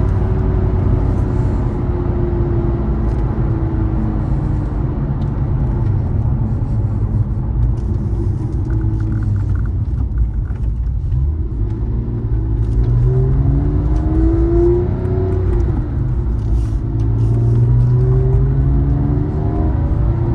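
2007 Porsche 911 Carrera 4S's 3.8-litre flat-six running through its sport exhaust, switched on, while driving. The revs ease off over the first few seconds and settle to a quieter cruise around the middle, then rise twice under acceleration in the second half.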